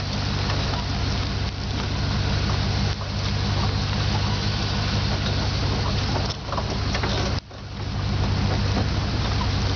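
Engine of a slowly driven vehicle running steadily, under a constant rushing noise that drops out briefly about seven seconds in.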